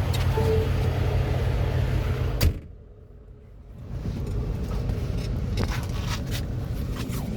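Truck engine running as a steady low rumble, heard from the cab. About two and a half seconds in, a sharp click and about a second of much quieter sound, then the rumble goes on with a few clicks.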